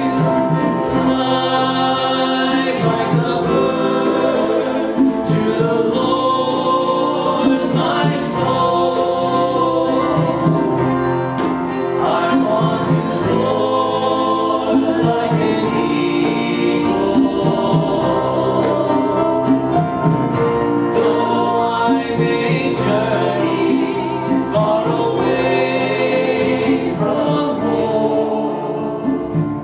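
Live acoustic song: singing over plucked string accompaniment, playing continuously.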